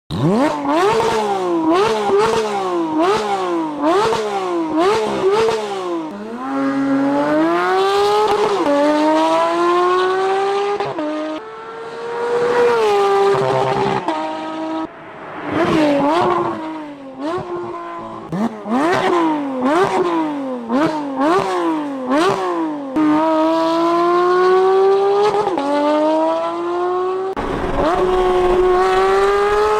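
Porsche 992 GT3's naturally aspirated flat-six, fitted with an aftermarket exhaust, revving hard. First come quick blips about once a second. Then come long rising pulls through the revs, each cut off by a sudden drop in pitch, as in gear changes under acceleration.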